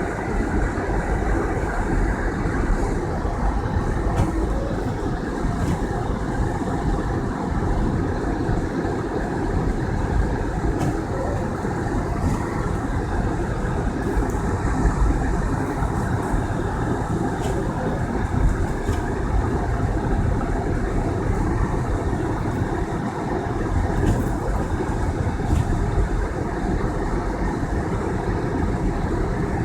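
Steady rumble of a car driving on a snowy road: engine and tyre noise with no change in pace.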